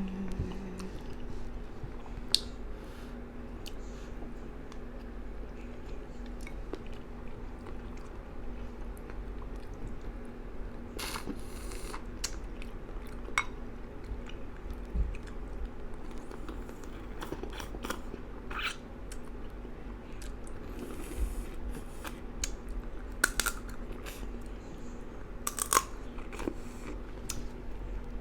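Close-miked eating of gumbo: chewing and biting with scattered sharp clicks and smacks, over a steady low hum.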